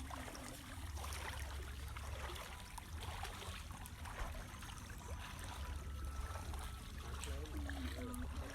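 Floodwater splashing and trickling, with scattered small splashes over a steady low rumble.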